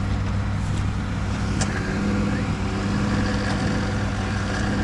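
Vehicle engine idling steadily, with a single sharp click about one and a half seconds in.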